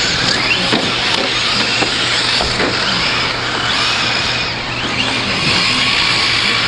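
Radio-controlled 4WD short course trucks racing on the track: a steady dense rush of motors and tyres, with brief rising and falling whines as the trucks speed up and slow down.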